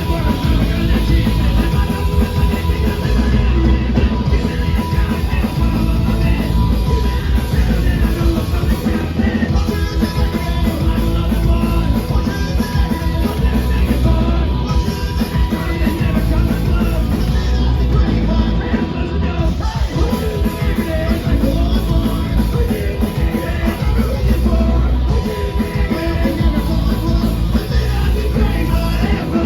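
Punk rock band playing live, with loud distorted electric guitar, bass and a fast drum kit, and shouted vocals. The song stops abruptly right at the end.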